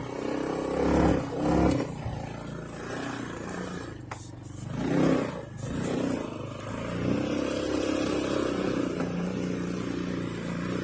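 A motor engine running, swelling up and back down about halfway through, then holding steady.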